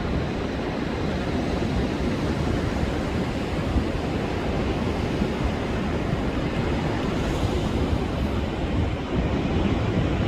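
Rough surf breaking and washing onto a sandy beach during a high-wave advisory, with strong wind rumbling on the microphone.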